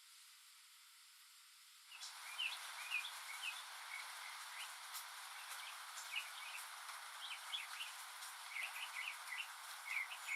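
Near silence for about two seconds, then a steady rain hiss comes in with many quick, faint bird chirps.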